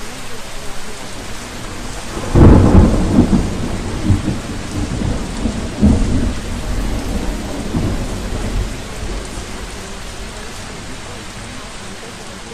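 Steady rain with a roll of thunder: a loud clap about two seconds in, then rumbling with a few more cracks that fades away over the next several seconds.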